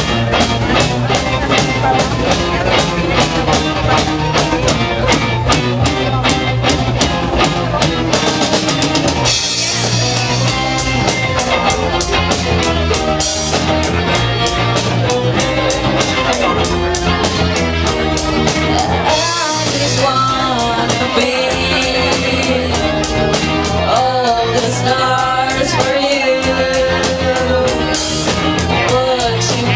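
Live rock band playing a song: steady drum kit beat with guitar and a singer's vocals.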